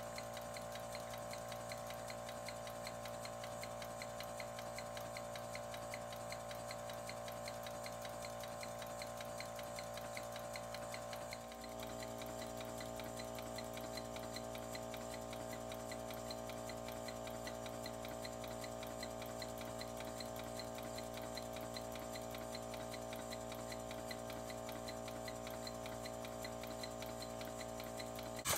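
Live steam model locomotive, an Accucraft 2-4-0, running on compressed air with its wheels turning freely off the ground: a steady fast ticking from the cylinders and valve motion over a steady hum. The hum shifts in pitch about eleven seconds in.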